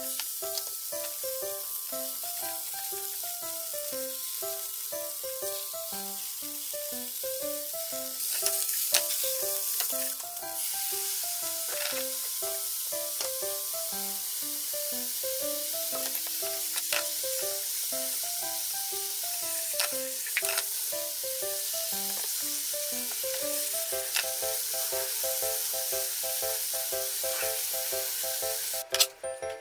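Diced daikon radish and yellowtail sizzling as they fry in a nonstick frying pan. The sizzle is steady, briefly louder about eight seconds in, with a few sharp clicks.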